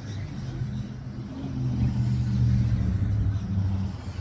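A low engine-like rumble that swells louder about two seconds in, then eases off.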